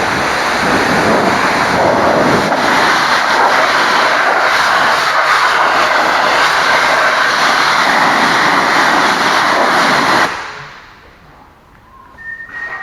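High-pressure water jet spraying the truck at a truck wash, a loud steady hiss that cuts off suddenly about ten seconds in. A faint short high tone follows near the end.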